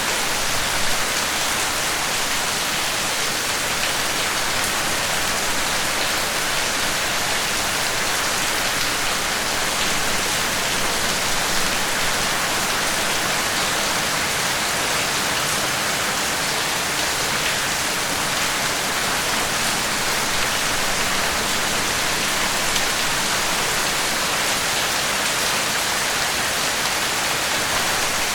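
Steady rain falling on a surface, an even hiss of many drops with faint scattered patters.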